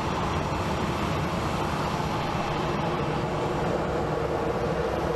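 Jet airliner engines running, a steady rumble with a faint steady whine that comes in about halfway through.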